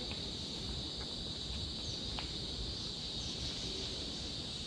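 Chorus of insects, crickets or cicadas, buzzing as one steady high-pitched drone over a low background rumble.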